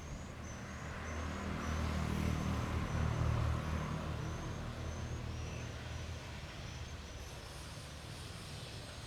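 An engine running with a low hum that grows louder about two seconds in and then eases off. A faint high chirp repeats about twice a second.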